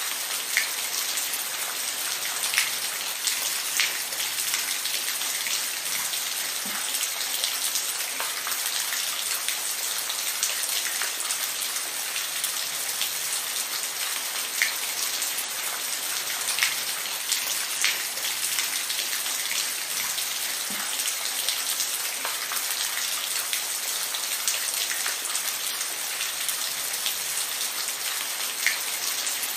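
Steady rain falling: a dense, even hiss with scattered louder drops ticking on a surface.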